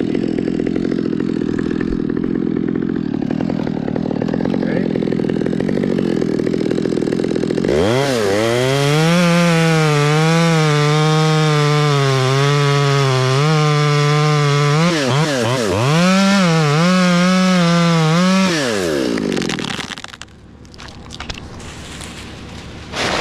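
Chainsaw running, then revved up hard at about eight seconds in and held under load for about ten seconds, its pitch wavering and dipping as it cuts through wood, before it winds down. A short sharp knock near the end.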